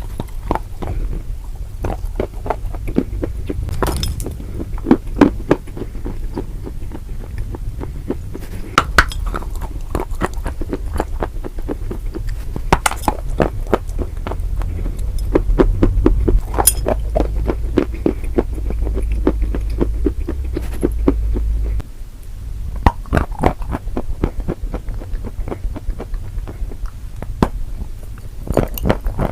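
Close-miked chewing of crunchy food: dense, irregular crunches and crackles over a heavy low rumble, which drops away abruptly about three quarters of the way through.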